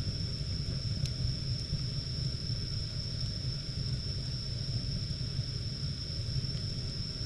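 Wood fire burning steadily in the firebox of a wood-fired bath, a continuous low rumble with a few faint crackles, about one and one and a half seconds in. A steady high-pitched whine runs throughout.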